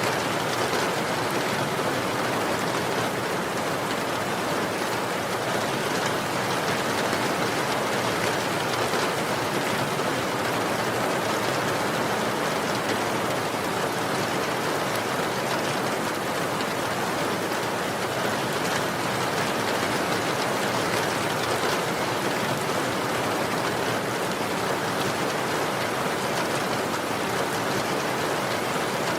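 Steady heavy rain: an even, unbroken hiss of falling rain on a surface, with no single drops or other events standing out.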